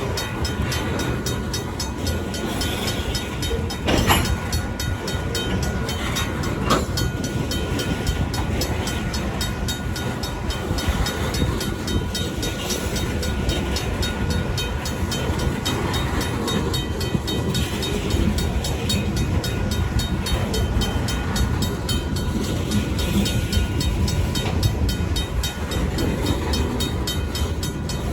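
Freight cars of a long train rolling over a road crossing, a steady low rumble of wheels on rail with two sharp metallic clanks about four and seven seconds in. A crossing's mechanical bell keeps ringing in an even rhythm behind it.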